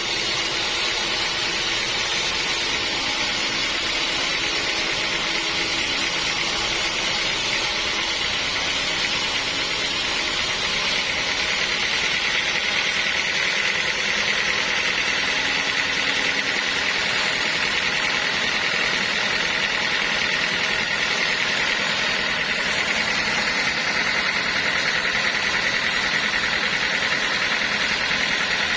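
Sawmill machinery running steadily, with a high whine over a constant mechanical hum.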